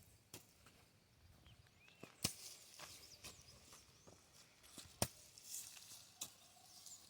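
A hoe chopping into the soil to dig planting holes for corn: two sharp strikes about two and a half seconds apart, the first about two seconds in, with a few lighter knocks between them.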